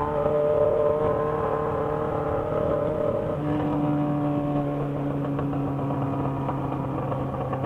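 Yamaha XJ6 motorcycle's inline-four engine running while riding; the engine note changes about three seconds in and then slowly falls a little in pitch.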